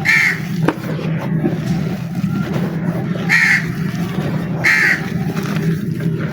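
A bird calling three times with short harsh calls, near the start and twice more about a second and a half apart, over a steady low hum.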